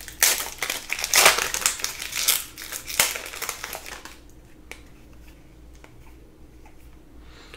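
Plastic trading-card pack wrapper being crinkled and crumpled in the hands, a dense crackling rustle that dies down about four seconds in to a few light clicks.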